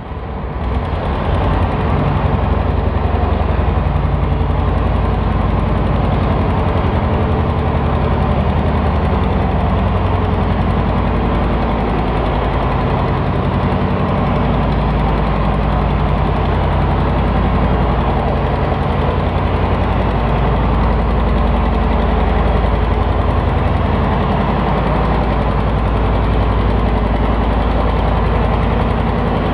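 Farm tractor engine running steadily and loud, with a fast even firing beat; it rises in over the first second or two.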